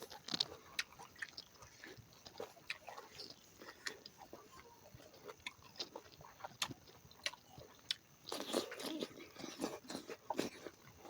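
A person chewing and biting food close to the microphone: scattered wet clicks and crunches, with a denser run of chewing about eight seconds in.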